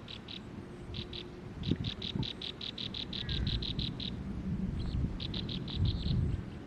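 A bird calling in rapid runs of short, high chirps, about seven a second, in several bouts that start and stop, over a low rumble.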